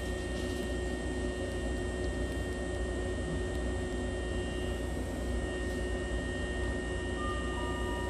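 Steady hum and hiss of a stopped electric train's onboard equipment, with steady whining tones, heard from inside the car with the door open. About seven seconds in, a faint electronic tone starts, alternating between two notes.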